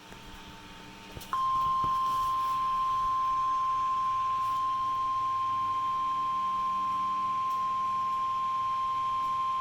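NOAA Weather Radio 1050 Hz warning alarm tone: a single steady high beep that switches on about a second in and holds without change, signalling that a warning message is about to be broadcast.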